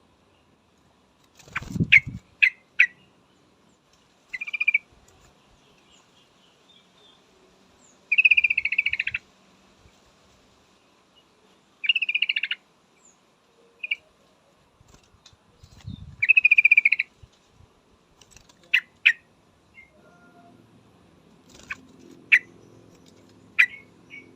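Yellow-vented bulbul calling: sharp ticks and short buzzy chattering phrases, each under about a second, with pauses of a few seconds between them. This is the call of a female, used to draw males to answer. Two low thuds sound under the calls, about two seconds in and again near the middle.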